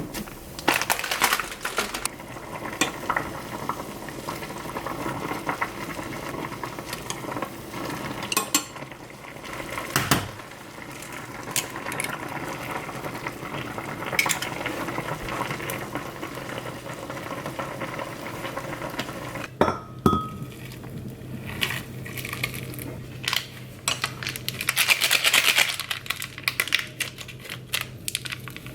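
Kitchen cooking sounds: utensils clinking, knocking and scraping against pots and dishes, over a steady hiss. A steady low hum comes in about two-thirds of the way through.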